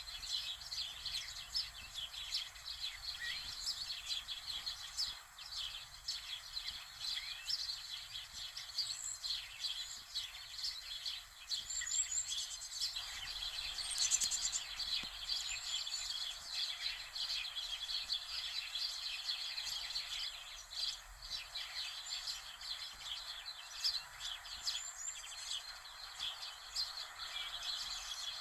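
Many small birds chirping over a steady background hiss.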